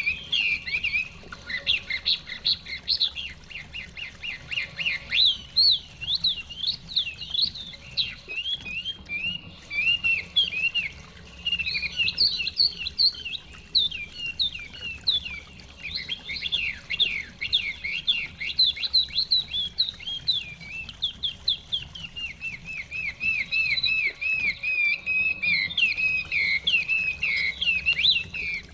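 A Chinese hwamei singing continuously: rapid series of repeated, sliding whistled notes in varied phrases, with brief pauses. A faint steady low rush lies beneath.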